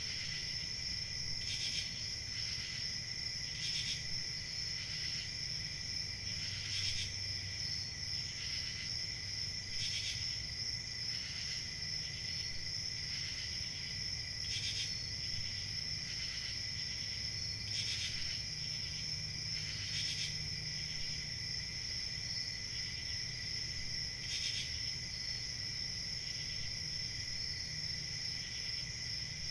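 Crickets chirping, a steady high trill with shorter repeated chirps over it.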